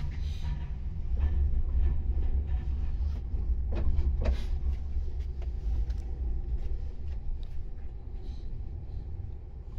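Meitetsu Seto Line 4000-series electric train running, heard from inside the car: a steady low rumble with a couple of brief squeals about four seconds in, the rumble easing off toward the end.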